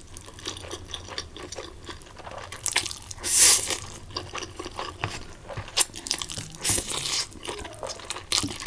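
Close-miked eating of spicy Korean buldak ramen noodles: wet chewing and mouth clicks throughout, with two short hissing bursts of sucking or blowing about three and seven seconds in.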